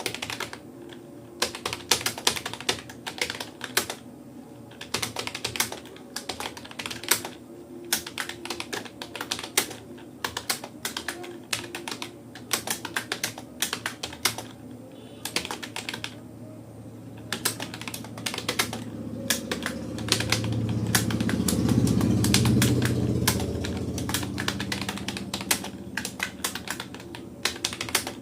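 Rapoo computer keyboard being typed on at a steady pace: a fast, irregular run of key clicks. A low rumble swells in the background from about two-thirds of the way through, then fades again.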